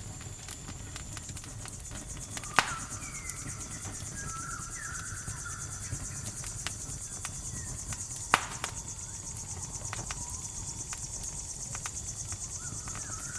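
Crickets chirring steadily with a campfire crackling in small ticks, and two sharp pops about two and a half and eight seconds in.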